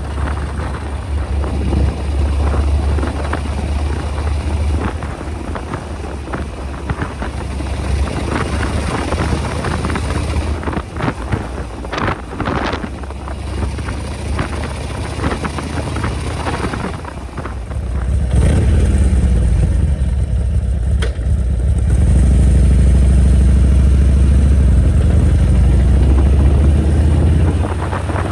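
Harley-Davidson XL1200R Sportster's 1200 cc air-cooled V-twin running as the motorcycle is ridden, its low exhaust note mixed with wind noise. The engine gets louder and steadier about two-thirds of the way in and then eases off near the end.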